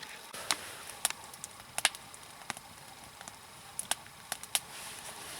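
Log campfire crackling: irregular sharp pops over a faint hiss.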